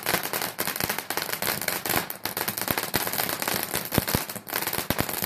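Consumer fireworks going off: a dense, continuous run of rapid crackles and pops, with a few louder bangs among them.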